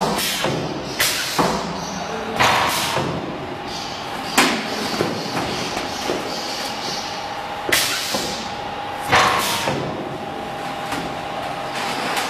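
Factory metalworking machinery: a steady hum with a series of sharp metallic clanks and knocks at irregular intervals, about eight in all.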